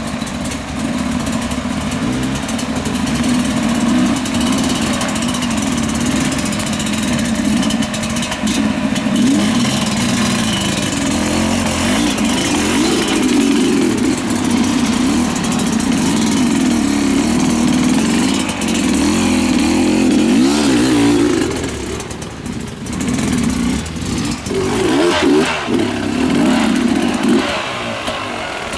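Motorcycle engines running, their revs rising and falling throughout. About two-thirds of the way through the sound dips, then several quick revs follow near the end.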